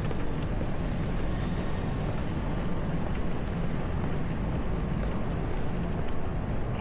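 Steady city street noise, mostly the low hum of passing traffic, with no single sound standing out.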